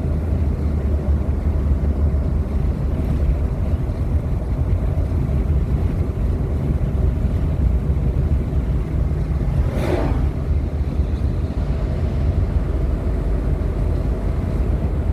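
Steady low road and engine rumble heard inside a moving vehicle's cabin, with one short sound falling in pitch about ten seconds in.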